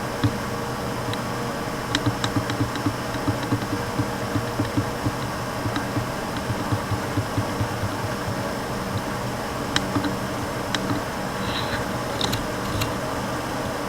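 Small electric ventilation fan running with a steady hum, with irregular light clicks and soft knocks over it.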